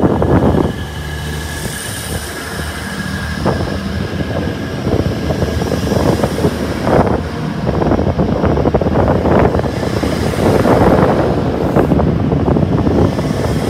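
Grand Central Class 180 diesel multiple unit passing close by, its underfloor diesel engines running with a steady low hum while the wheels click and clatter at irregular intervals over the track.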